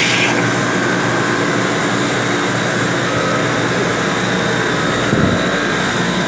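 Yacht engine-room machinery running: a steady drone with several constant humming tones. A hiss cuts off just after the start, and there is a brief low thump about five seconds in.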